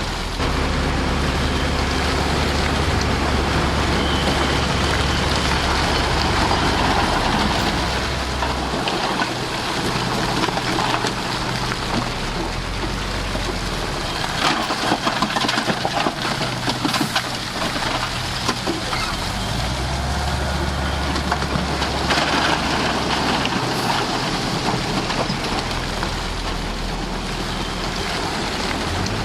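Heavy diesel earthmoving machine working, its engine drone rising and falling with the load, with a run of knocks and clatter about halfway through.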